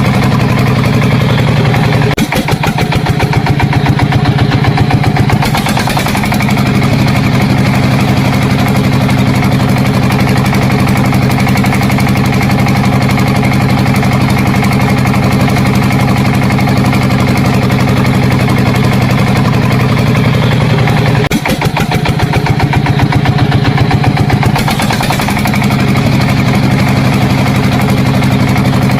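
Engine running steadily with a low, even chug. Twice, about two seconds in and again near twenty-one seconds, it dips, then runs louder and faster for about three seconds before settling back.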